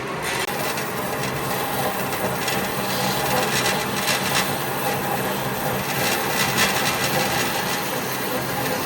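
A tool scraping continuously against wood in rough, uneven strokes, like rasping or sanding.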